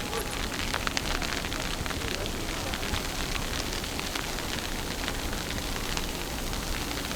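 Outdoor snowstorm ambience: a steady rush of noise with many small, irregular crackling ticks.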